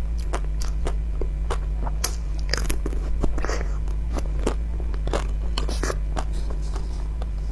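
Close-miked eating sounds: biting and chewing a pink ice cream bar, a run of sharp wet mouth clicks and small crunches over a steady low hum.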